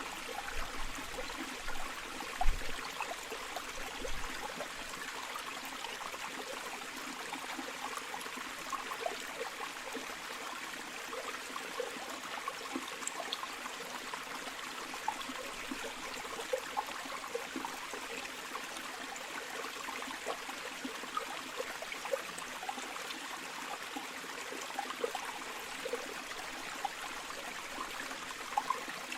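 River water flowing steadily, a continuous rush with small bubbling and trickling sounds through it. A few low thumps in the first four seconds.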